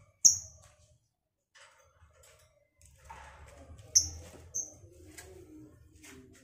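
A pair of lovebirds giving short, shrill high-pitched chirps: one loud one about a quarter second in and two more around four seconds in, with softer squeaky chatter between.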